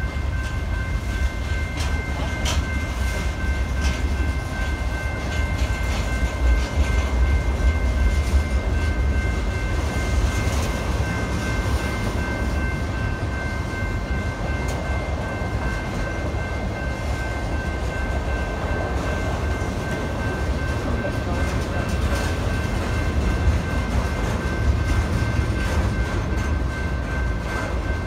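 Freight train cars, mostly tank cars, rolling past at steady speed: a continuous low rumble of steel wheels on rail with scattered clicks, and a thin steady high whine running through it.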